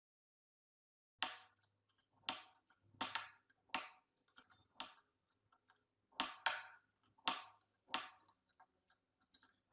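Sharp clicks and knocks of hand work on a rusty antique key cutting machine, about one or two a second, starting about a second in.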